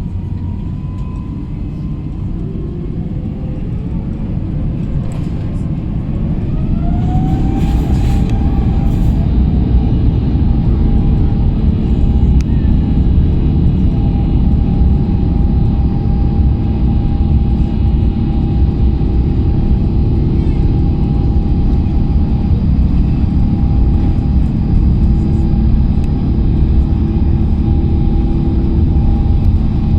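Airbus A350-900's Rolls-Royce Trent XWB engines spooling up to takeoff thrust, heard inside the cabin: a whine rises in pitch over a growing rumble and levels off about seven seconds in. After that comes the loud, steady rumble and held whine of the takeoff roll.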